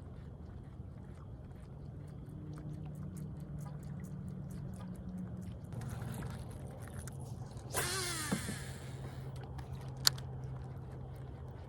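A fishing cast: line whirring off a spinning reel, its pitch falling quickly as it slows, about eight seconds in, then a sharp click about two seconds later. A steady low hum runs underneath throughout.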